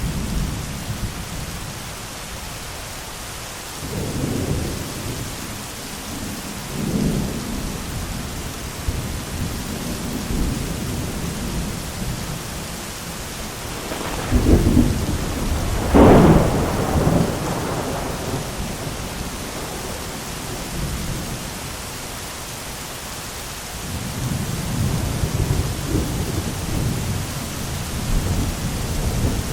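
Thunderstorm: steady rain hiss with rolls of thunder rumbling low several times, and a loud, sharper thunderclap about halfway through.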